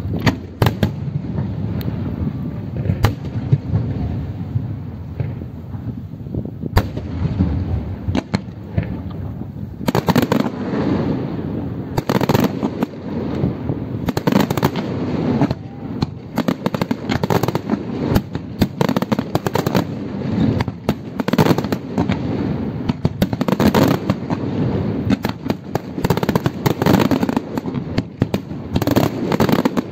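Fireworks display: aerial shells bursting, with repeated sharp bangs and crackle over a low rumble. The bursts are sparse for the first ten seconds or so, then follow in a dense, rapid run.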